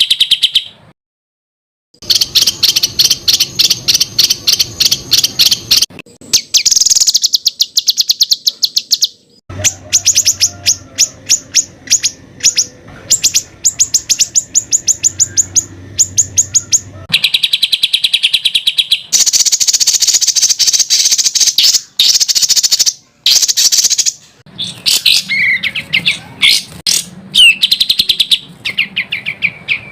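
Songbird song made of rapid trains of sharp, high repeated notes, many per second, in phrases several seconds long separated by short breaks. This is the dense 'tembakan' style of song used to train competition birds. About a second in there is a brief silence.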